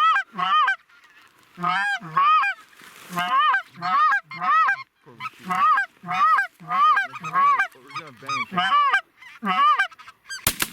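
Greater white-fronted geese (specklebellies) calling, a rapid series of short high yelping calls about two a second as the flock sets up over the decoys. A sharp crack near the end, a shotgun shot.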